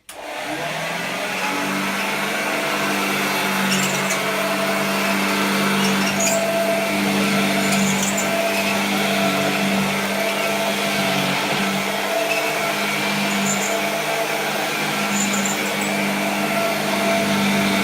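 A 1936–38 Hoover 375 upright vacuum cleaner is switched on. Its motor spins up over about the first second and a half, then runs with a steady hum.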